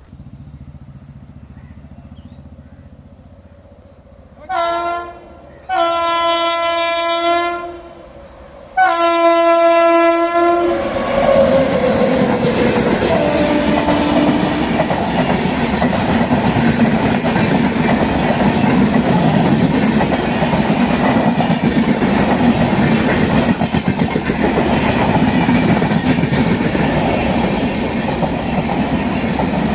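Passenger train's locomotive horn sounds three times, a short blast then two long ones, the last sliding down in pitch as the locomotive goes by. Then the train's coaches pass close with a loud steady rumble and clickety-clack of wheels over the rail joints.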